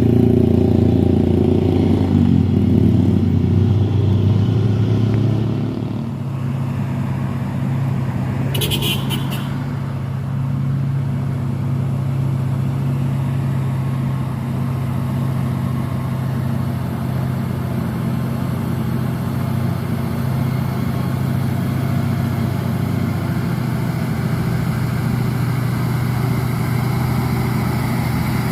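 Heavy diesel truck engine running under load on a steep climb, louder for the first few seconds and then steady. A brief high-pitched sound comes about nine seconds in.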